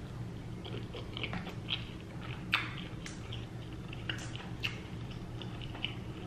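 Close-miked chewing of a mouthful of food, with short wet smacks and clicks scattered through, over a steady low hum.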